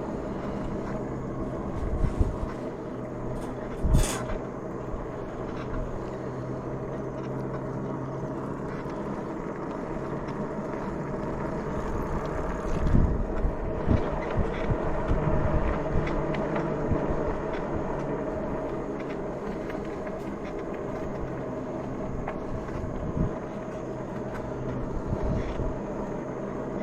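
Electric bike in motion: a steady hum with rumble, broken by a few short low thumps, the strongest about four seconds in and again around thirteen seconds.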